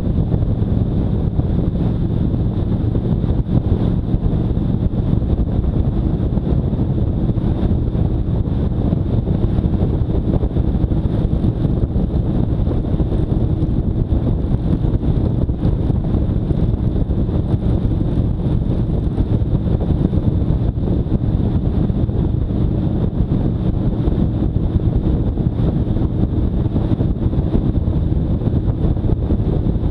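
Motorcycle riding at steady speed: wind buffeting the microphone, with the engine running steadily underneath.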